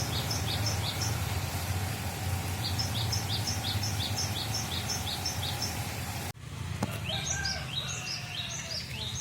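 Cinereous tit song: repeated two-note phrases, a high note then a lower one, about three pairs a second, in runs of a second or two with gaps between. A steady low hum runs under the first six seconds, then the sound cuts abruptly and the song carries on.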